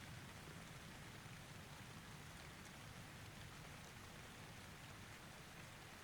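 Faint, steady rain: an even hiss of falling rain with no distinct drops or thunderclaps standing out.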